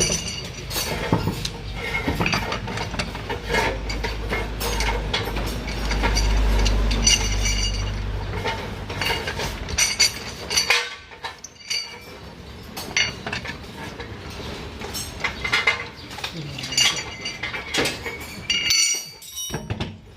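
Metal tools and parts clinking and knocking in many sharp, irregular strikes. A low steady rumble runs under the first half and stops about ten seconds in.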